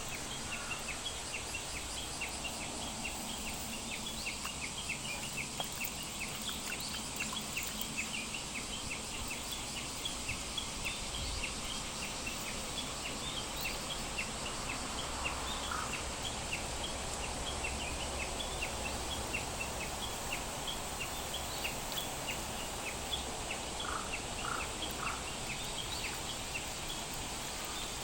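Chorus of many short, high chirps, several a second, over a steady high hiss, typical of insects or frogs in a tropical riverside setting, with a low rumble underneath.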